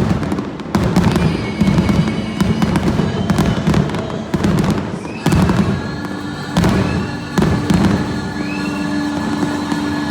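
Aerial fireworks exploring the sky in a rapid barrage, with sharp bangs and booms often less than a second apart, over music.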